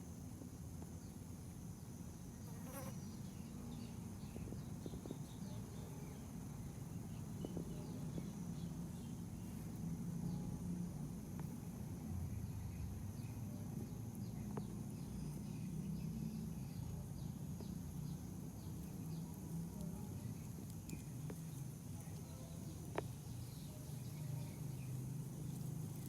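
A fly buzzing: a low, steady, slightly wavering drone of its wings, with faint steady high-pitched tones and a few small clicks behind it.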